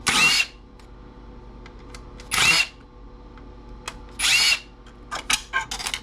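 Power drill-driver backing screws out of a stereo chassis. It runs in three short whining bursts about two seconds apart, then gives several quick blips near the end.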